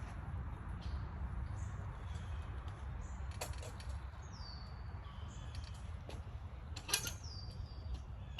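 Outdoor ambience: a steady low rumble of wind on the microphone, two sharp clicks a little over three seconds apart, and short high chirps that fall in pitch, two of them, from birds.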